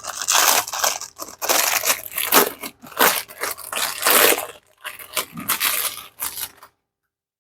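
Crinkling and rustling of plastic food packaging being handled and torn open, in irregular bursts that stop abruptly near the end.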